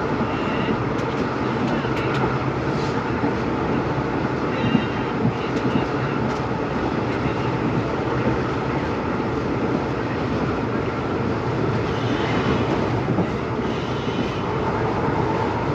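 Train on the move behind a WDP4B diesel locomotive: a steady, loud rumble of engine hum and running gear, with a few sharp clicks from the wheels and track.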